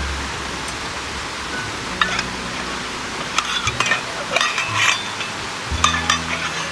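Cookware and utensils clinking and scraping in short clusters, with brief high ringing after some strikes, over a steady noisy background.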